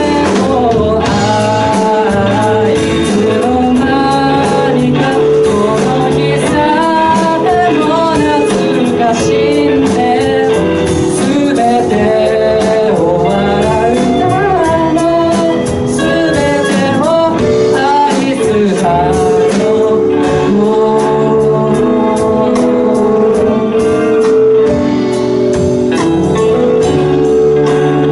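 Music: a song sung over keyboard accompaniment, the voice gliding between notes over sustained chords and a bass line.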